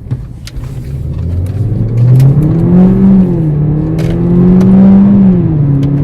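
Mercedes CLA45 AMG's turbocharged 2.0-litre four-cylinder engine revving hard. The pitch climbs steadily over the first three seconds, dips briefly, swells again and settles at a high, steady pitch near the end.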